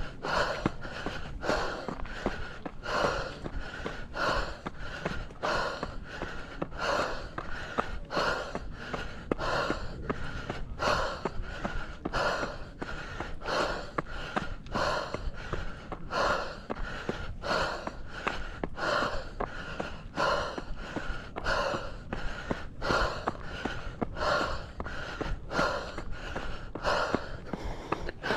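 A runner's heavy, rhythmic breathing under the effort of an uphill run, about three breaths every two seconds, with a steady low wind rumble on the microphone.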